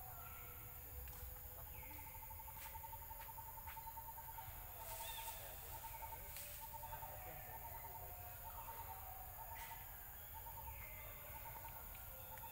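Faint wild bird calls: a rapid pulsing trill at one steady pitch, repeated in bursts, and every couple of seconds a higher note that slurs downward.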